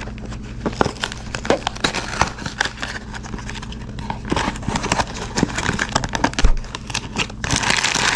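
Blind-box packaging being opened by hand: cardboard and a plastic bag rustling and crinkling with many small irregular clicks, the rustling heaviest near the end.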